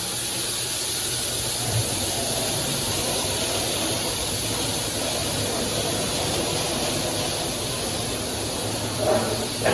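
PDQ LaserWash 360 touchless car wash spraying water over the car: a steady rushing hiss with a low hum beneath it, and a couple of brief knocks near the end.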